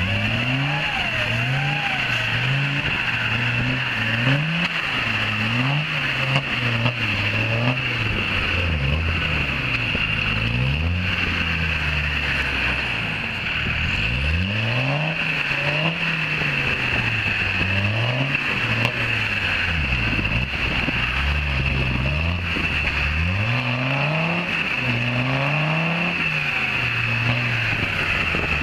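Land Rover 90's engine working off-road through deep mud ruts, the revs climbing and dropping again every second or two as the throttle is worked. A steady high-pitched whine runs underneath.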